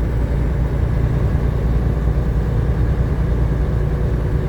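Steady low drone of a truck's engine and road noise heard inside the cab while driving.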